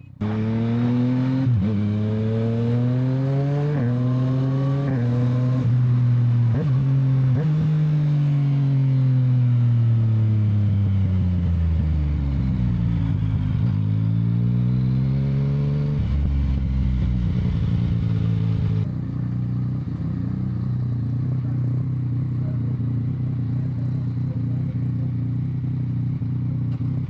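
Yamaha MT-09's inline-three engine pulling through several gear changes: its pitch climbs and drops back at each shift, then falls away as the bike slows, picks up again and settles into a steady cruise. Wind and road noise run underneath.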